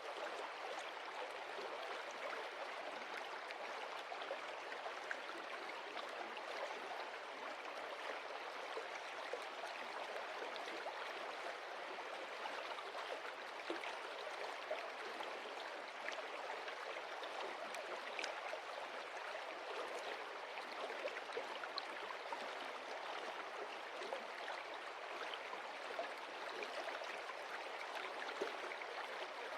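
Stream water running over stones: a steady rush with many small splashes.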